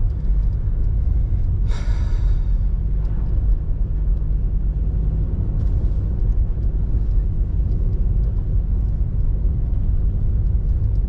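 Steady low rumble of a car driving, heard from inside the cabin, with a brief higher-pitched sound about two seconds in.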